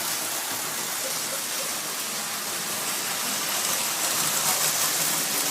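Vintage electric toy trains running around their tracks: a steady rolling noise from the wheels and motors.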